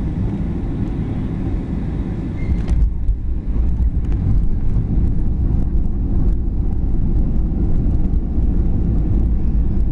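Inside a Boeing 737-800's cabin, a steady rumble of engines and airflow, then a sharp thump nearly three seconds in as the wheels touch down. After it comes a louder, deeper rumble of the landing gear rolling on the runway, with many small jolts.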